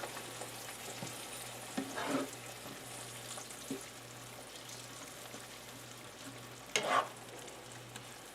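Onions and beef broth sizzling in a frying pan, a steady faint sizzle, with two brief louder sounds about two seconds in and near seven seconds.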